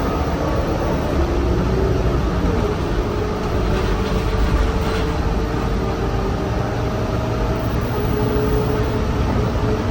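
City transit bus driving, a steady low rumble with a whine that rises in pitch about a second in and then holds steady.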